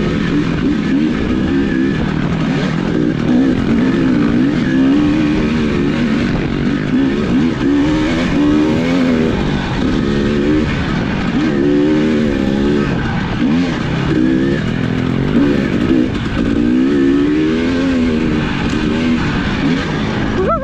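Off-road vehicle's engine running while riding, its pitch rising and falling again and again with the throttle, over a steady rushing noise.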